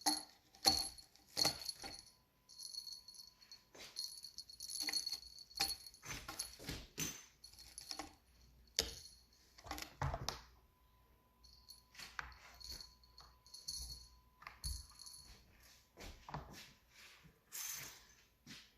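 Small jingle bell jingling in short, uneven bursts, with light taps and knocks in between.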